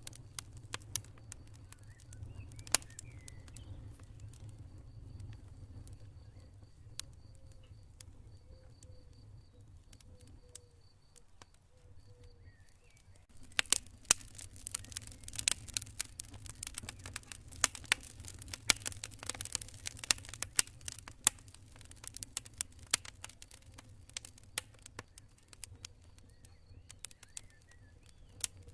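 Campfire burning with a low rumble and irregular crackles and pops, which thicken into dense crackling about halfway through. Faint, high chirping in short pulsed runs sounds over the first half.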